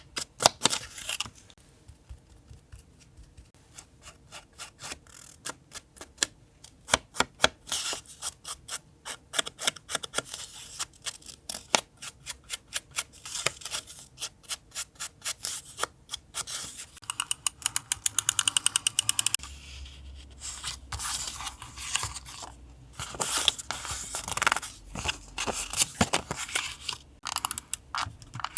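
Paper-crafting sounds: repeated sharp snips and clicks with paper scraping and rustling between them, including a fast even run of clicks about two-thirds of the way through.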